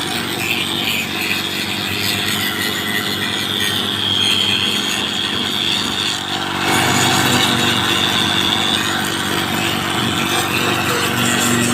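Power tool running steadily on a fibreglass boat hull under repair, getting louder about two-thirds of the way through.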